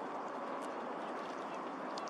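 Steady outdoor background noise, with a few faint, short calls from waterbirds.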